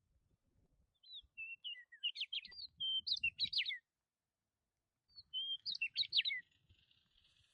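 Songbird singing: two phrases of quick, high chirps and trills, the first about a second in and the second about five seconds in, with a short pause between.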